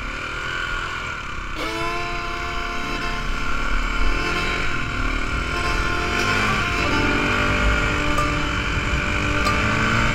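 Dual-sport dirt bike's single-cylinder engine pulling away and accelerating, its pitch climbing, dropping at gear changes and climbing again, over a low wind rumble on the helmet camera.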